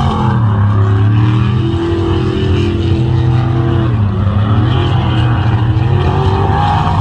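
Mega truck engine running hard under load, its pitch rising and falling as the throttle is worked, with a brief drop about four seconds in.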